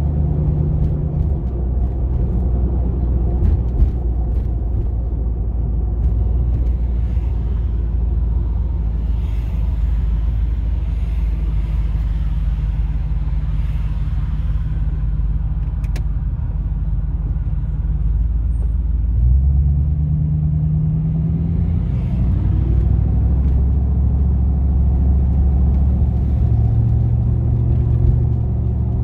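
V8 engine of a GMC Vandura / Chevy G20 van running while driving, a steady low rumble. The revs pick up about two-thirds of the way in and again near the end.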